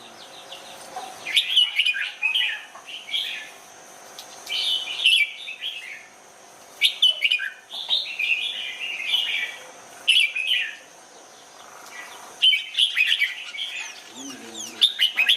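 Red-whiskered bulbul singing: a run of short phrases of bright, quick chirping notes, with brief pauses between the phrases.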